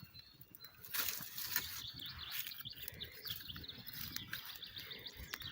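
Small birds chirping repeatedly in the forest, with a campfire of birch bark and thin twigs crackling sharply a few times about a second in.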